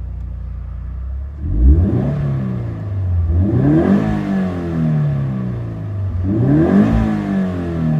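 Toyota 86 (ZN6) FA20 flat-four engine and exhaust idling, then revved three times in free blips. Each blip rises quickly in pitch and falls back to idle.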